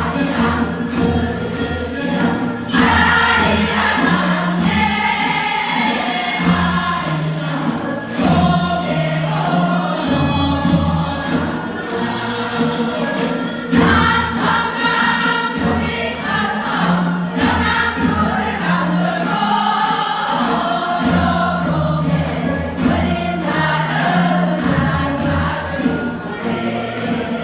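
A group of voices singing together over amplified backing music with a steady bass beat.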